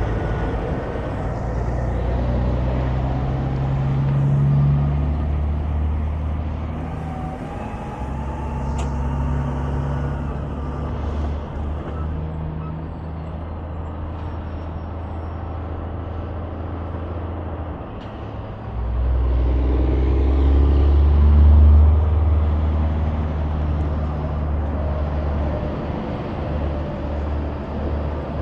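Highway traffic: heavy trucks and cars driving past with a steady low engine drone. A louder vehicle goes by about two-thirds of the way through.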